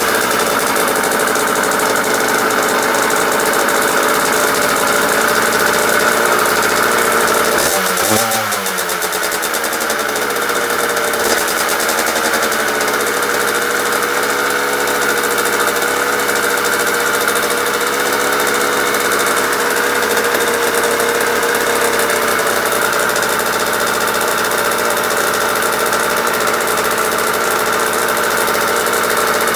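Small two-stroke pit bike engine running. Its revs fall about eight seconds in, then it holds a steady idle.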